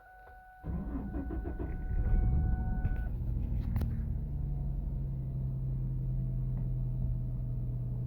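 A 2000 Ford Mustang's engine is cranked by the starter, catches about two seconds in with a brief rise in revs, then settles into a steady idle.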